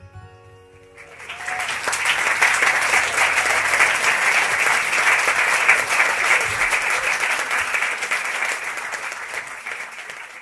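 The last guitar chord rings out, then the audience applauds. The applause swells up about a second in and slowly dies away near the end.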